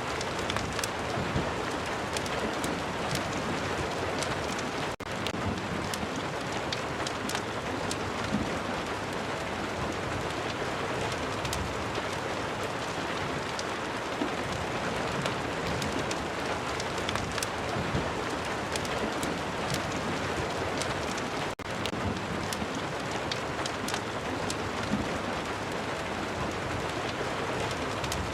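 Steady heavy rain mixed with a crackling fireplace, scattered small pops over a dense hiss. The sound drops out for an instant twice, about five seconds in and again near twenty-one seconds.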